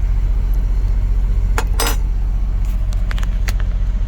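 Steady low rumble of the idling truck heard inside the cab, with a few light clinks of a spoon against a bowl, twice around a second and a half in and a few more around three seconds in.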